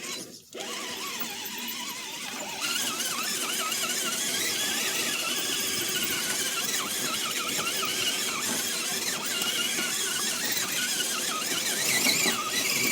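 Redcat Gen7 RC rock crawler's electric motor and gearbox whining under load as it climbs, the pitch wavering up and down with the throttle. It gets a little louder about two and a half seconds in.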